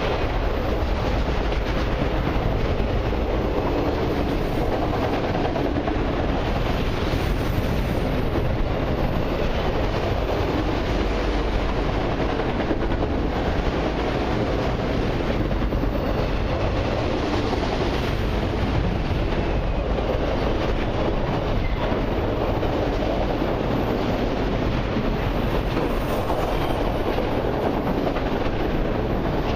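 Long freight train of autorack cars rolling past: a steady rumble of steel wheels on rail, with no horn or engine note standing out.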